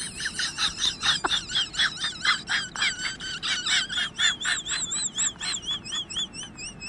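A rapid series of high chirping calls, about four a second, turning in the second half into a wavering, warbling whistle-like tone.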